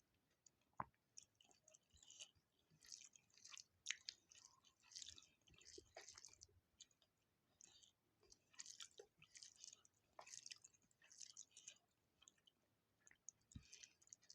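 Quiet close-miked chewing of a rice, dal curry and fried-potato meal: crackly mouth sounds in irregular bursts, with a few sharp clicks and smacks.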